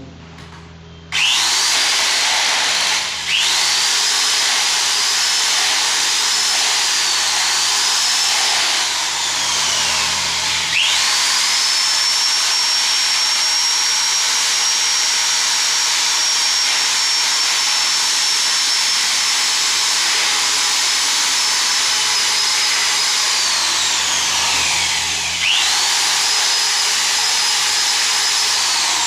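Handheld electric power tool running under a plumber's hands, its motor whine high and steady. It spins up about a second in, dips briefly, slows and restarts twice, and winds down near the end.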